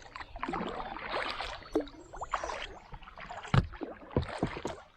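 Kayak paddling: water swishing and splashing off the paddle blades in uneven strokes, with a few sharp knocks in the second half.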